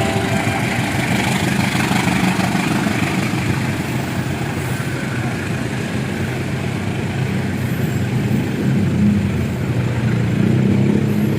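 A large engine running steadily under a continuous rumble, with its low hum growing a little stronger near the end.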